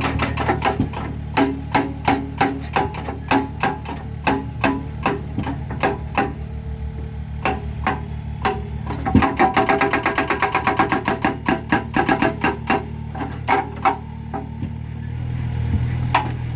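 Mini excavator's hydraulic breaker hammering concrete with ringing metallic blows, about three a second at first, then a fast rattle of blows for several seconds in the middle, over the steady hum of the excavator's engine. Near the end the hammering dies away and the engine note swells.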